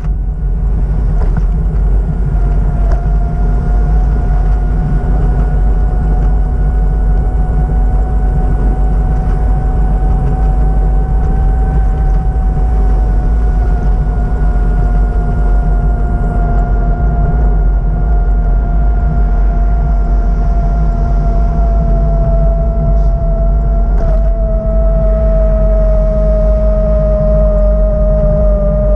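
A vehicle's steady low rumble, with a steady whine over it that slowly sinks in pitch.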